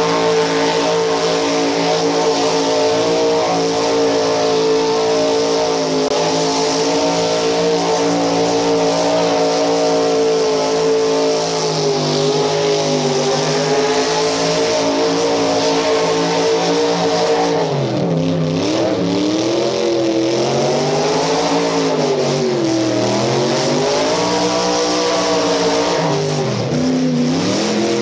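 LS V8 of a 1940 pickup rat rod held at high revs through a burnout, its rear tires spinning. From about two-thirds of the way through, the revs sag and climb back again and again, a stumble that sounded like fuel starvation.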